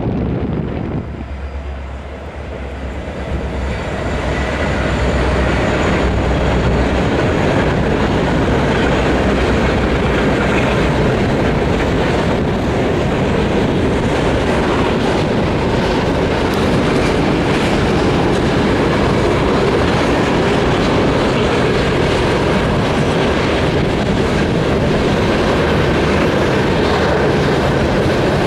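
Union Pacific diesel locomotives passing, their engines giving a low steady drone for the first few seconds. Then a long string of refrigerated boxcars rolls by with steady wheel-on-rail noise.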